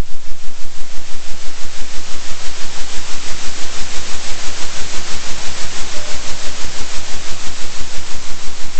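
Electronic hiss-like noise pulsing evenly in loudness about three times a second, a 3 Hz oscillating sound track, over a steady low hum.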